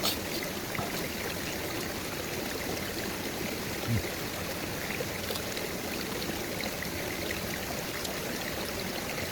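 Steady rush of flowing stream water, with a few faint ticks and one short low knock about four seconds in.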